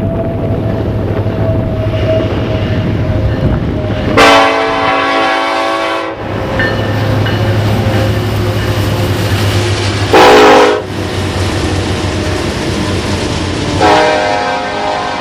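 Locomotive air horn sounding a chord in a long blast, then a short blast, then another long blast beginning near the end, over the steady rumble of the train.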